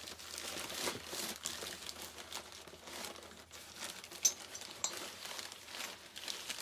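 Packaging crinkling and rustling as a part is unwrapped and handled out of its box, with a sharp click about four seconds in.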